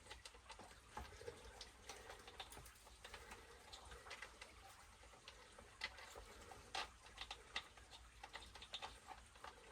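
Faint, irregular light clicks and taps of small parts and tools being handled while working on an RC truck's drivetrain.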